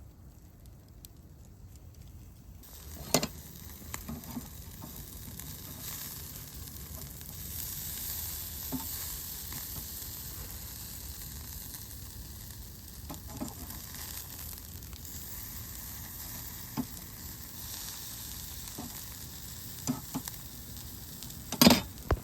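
Food sizzling in a hot pan, starting suddenly about three seconds in and then holding a steady hiss. Occasional sharp clicks and knocks sound over it, with the loudest near the end.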